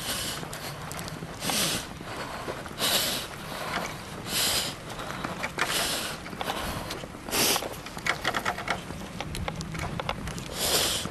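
A runner breathing hard, a loud hissing breath about every one and a half seconds, with footsteps on snow between the breaths.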